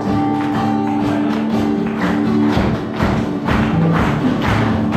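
Live praise and worship band playing an upbeat song, with held chords and a steady percussion beat between sung lines.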